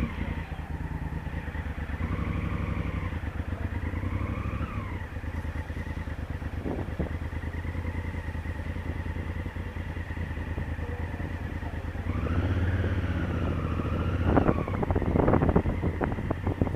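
Honda Africa Twin CRF1000L's parallel-twin engine running steadily, with a rise and fall in engine pitch twice, then getting louder as the bike moves off, with wind buffeting the microphone near the end.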